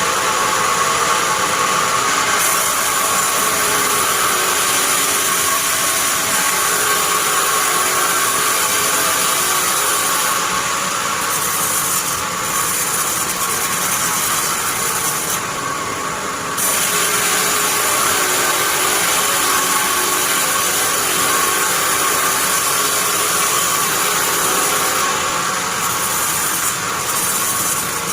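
Sawmill bandsaw running steadily through pine, a loud continuous whine and hiss. The high hiss dips briefly a few times, about ten seconds in, around sixteen seconds and near twenty-five seconds.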